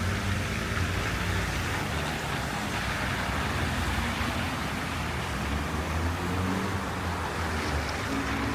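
Road traffic on snow-covered streets: a steady hiss of car tyres over a low engine hum.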